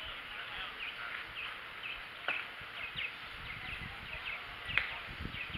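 Birds chirping continuously, with two sharp knocks: one a little over two seconds in and a louder one near the end.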